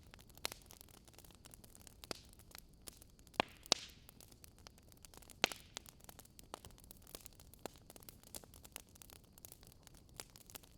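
Wood fire crackling: irregular small pops and snaps over a soft hiss, with a few louder pops around the middle.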